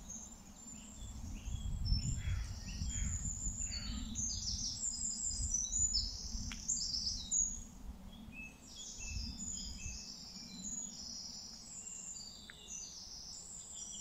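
Small birds singing and chirping, with many short high chirps and trills overlapping, over an uneven low rumble.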